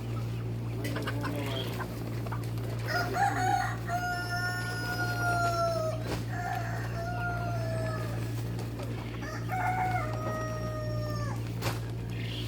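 Roosters crowing several times, the longest crows drawn out for about two seconds and dropping off at the end, over a steady low hum.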